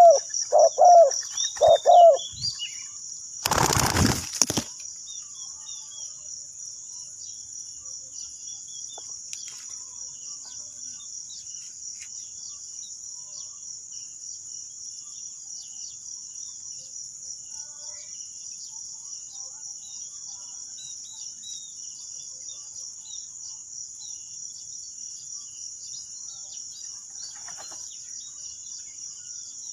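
Spotted dove cooing in a quick series of repeated notes for about two seconds, then a burst of wing flapping around four seconds in. After that, a steady high-pitched insect drone with faint chirps of small birds.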